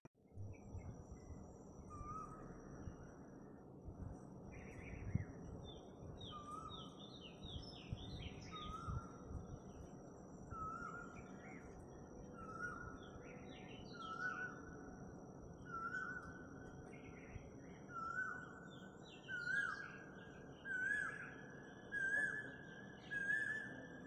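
Birdsong in a garden: one bird repeats a short call every second or two, each call a little higher and louder than the last, coming faster toward the end, while other birds chirp higher up over a low hum of outdoor noise.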